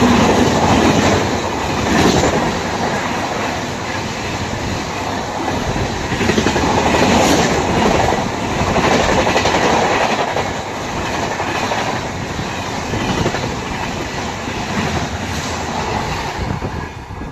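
Express train passing close by at speed: a continuous loud rush of wheels on rail, with the clickety-clack of the wheels striking rail joints now and again.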